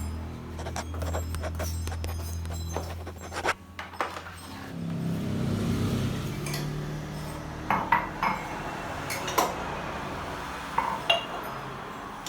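Dishes and kitchenware clinking and knocking as they are handled and set down, a scatter of sharp clinks with a few louder knocks in the second half. A low hum runs underneath and fades out about four seconds in.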